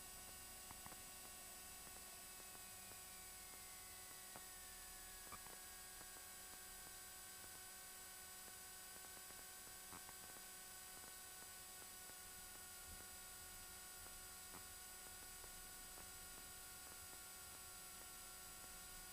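Near silence: a faint steady hiss and hum, with a faint tone that slides down in pitch over the first few seconds and a few soft clicks.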